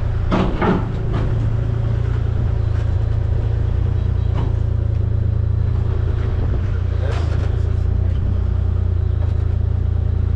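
Heavy excavation machine's engine running steadily, a deep constant drone.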